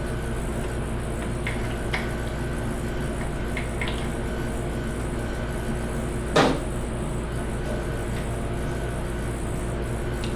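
Hand tools working on a Ford 5.4 V8 during teardown: a few light metal clicks, then one louder clank about six seconds in.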